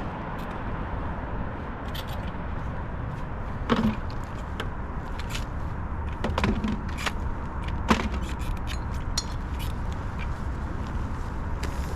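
Scattered clinks and knocks of roadside litter being handled and picked up, over a steady low background rumble. The loudest knocks fall about four, six and a half, and eight seconds in.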